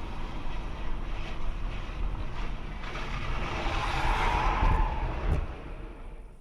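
Car on the move, heard from inside the cabin: steady road and engine rumble, with a hiss that swells about four seconds in. The noise drops away near the end.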